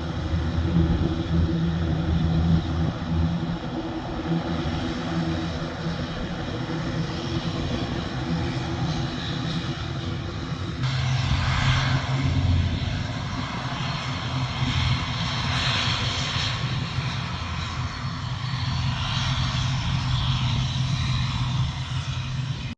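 Jet airliner engines running loudly and steadily, a mix of low droning tones and hiss. About halfway through the sound changes abruptly, with more hiss and a shifted low tone.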